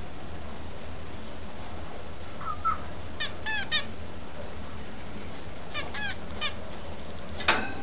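A bird giving short, nasal, honk-like calls in two quick groups of several notes each, followed by a single sharp knock near the end.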